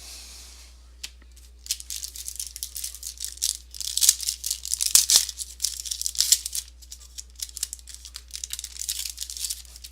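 Trading cards and their foil pack wrapper being handled: a dense run of fast crackling, rustling and clicking, starting about two seconds in and going on until just before the end.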